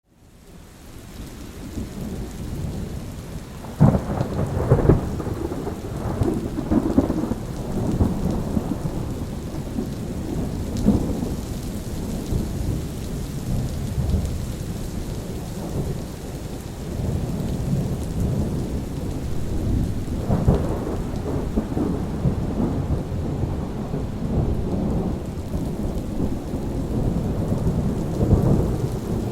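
Steady rain with thunder rumbling again and again, rising from near silence over the first couple of seconds. A sharp thunderclap comes about four seconds in, and another loud roll about twenty seconds in.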